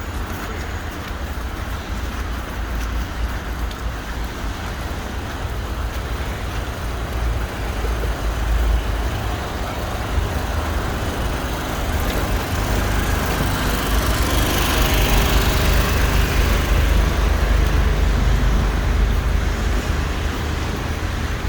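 City street traffic: a steady rumble of passing vehicles, growing louder about two-thirds of the way through as one goes by close.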